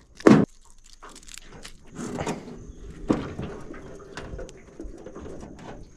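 A crab pot being hauled up into a small boat: a sharp knock about a third of a second in, then scattered knocks and rattles, with another thump about three seconds in.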